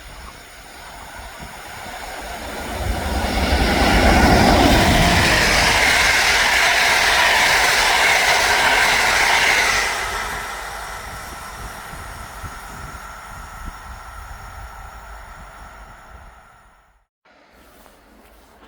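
Train passing the stop at speed: the rushing noise of wheels and cars builds over a couple of seconds, stays loud for about six seconds, then fades away and cuts off abruptly near the end.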